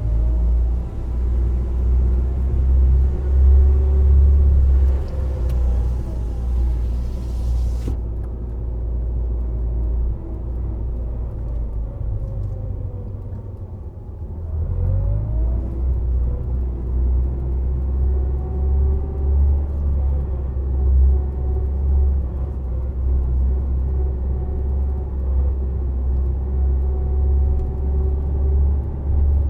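Subaru Impreza WRX STI Spec C's turbocharged flat-four running at expressway speed through an A-RM aftermarket muffler, a steady low drone. About halfway through the engine note drops away briefly, then rises again as the car pulls back up to speed.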